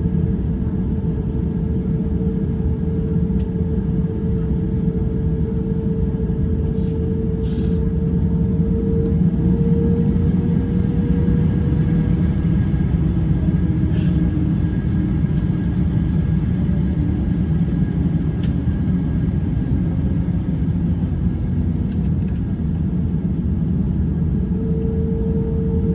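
Airbus A350-900 cabin noise: the steady low rumble of the Rolls-Royce Trent XWB engines and airflow heard from inside the cabin, with a steady hum on top that fades about halfway through and comes back near the end.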